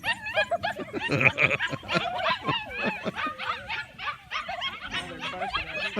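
Dogs vocalizing at each other in a continuous run of short calls that bend up and down in pitch.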